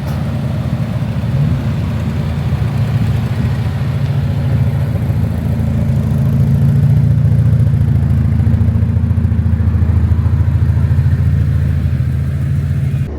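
A car engine running steadily, a low exhaust drone that swells slightly in the middle and eases back near the end.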